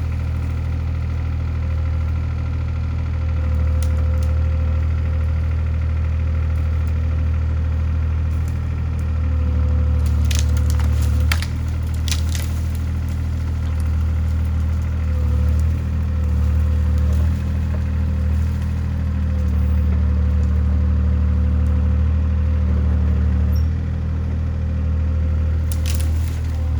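Mini excavator's diesel engine running steadily with a steady whine, while wood cracks and splinters in sharp snaps a little before the middle and again near the end as trees are broken down.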